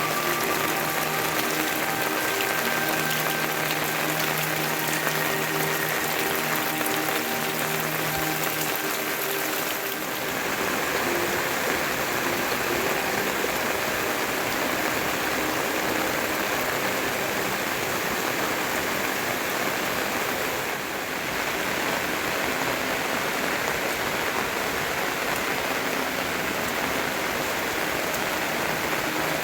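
Steady, even rushing of water, rain or a flowing stream, unbroken throughout. For roughly the first ten seconds, background music with held notes plays over it, then stops.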